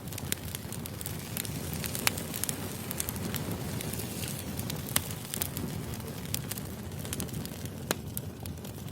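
Burning firewood crackling: a steady low rush with scattered sharp pops, the loudest about two, five and eight seconds in.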